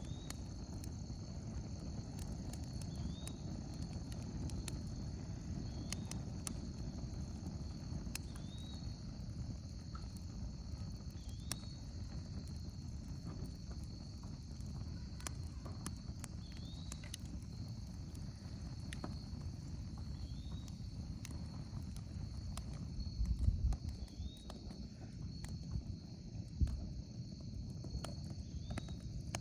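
Evening chorus of crickets and other insects trilling steadily, with a short rising chirp repeating every two to three seconds, scattered sharp pops and crackles of a wood fire, and a low rumble. A couple of low thumps come near the end.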